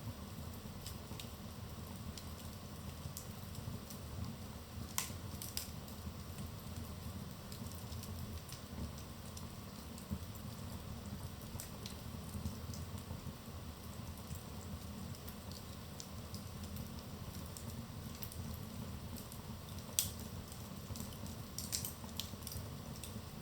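Wood fire burning in a fireplace: a steady low rumble of the flames with scattered sharp crackles and pops, the loudest pops about five seconds in and about twenty seconds in.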